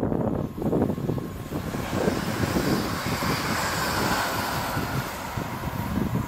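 Electric multiple-unit passenger train passing at speed on the fast line: a rushing wheel-and-air noise that swells about a second in, is loudest in the middle and eases off as the train goes by.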